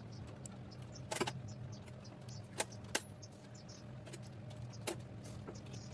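Hand tools clinking against metal during engine assembly work: a few sharp clinks, two close together near the middle, over a steady low hum.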